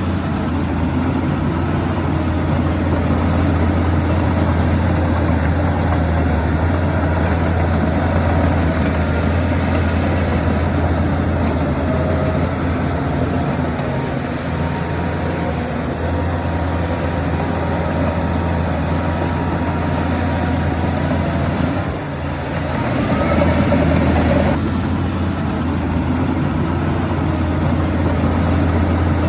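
Heavy diesel earthmoving machinery running steadily with a deep engine drone. The drone dips briefly about 22 seconds in, then swells for a couple of seconds as the engine takes load.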